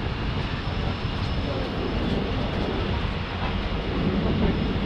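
Passenger train running: a steady, low rumble and rattle of the carriage on the rails, with faint voices in the background.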